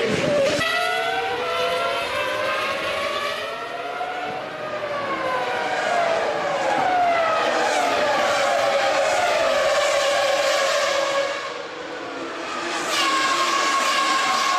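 Several 1999 Formula One cars' 3.0-litre V10 engines at high revs, their pitches rising and falling as they change gear and pass. The sound dips about twelve seconds in, then another car comes by loud.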